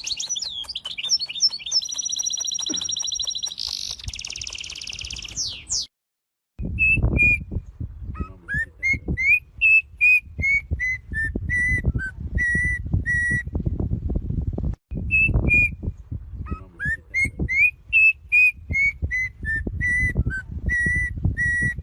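A songbird singing: a phrase of clear whistled notes that rise, then step down and level off, heard twice, over a constant low rumbling. Before it, a high, rapid trill runs for several seconds and stops abruptly.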